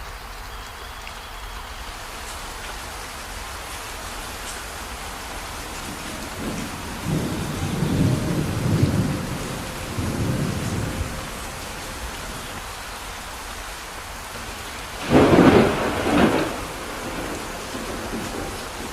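Steady rain falling, with thunder: a low rolling rumble in two swells about a third of the way in, then a louder, sharper thunderclap with a short rumbling tail near the end.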